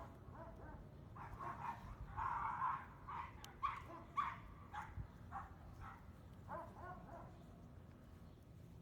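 A series of about a dozen short animal calls, each less than half a second, coming roughly every half second over several seconds and then stopping.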